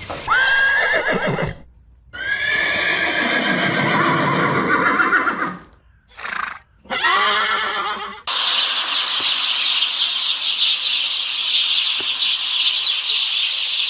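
Horses neighing: four whinnies in quick succession, the longest about three seconds. About eight seconds in, the calls give way to a steady high hiss.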